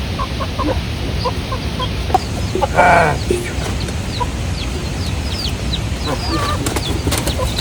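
Chickens clucking, with many short high chirps scattered through and one louder call about three seconds in, over a steady low rumble.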